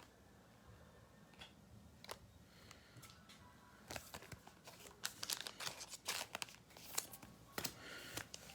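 Faint crinkling and tearing of a foil trading-card pack wrapper and cards being handled: a few small clicks at first, then a denser run of crackling from about four seconds in.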